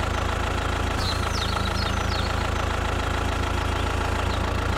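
Engine idling steadily with a low hum. Short high chirps, like small birds, come in two brief clusters above it.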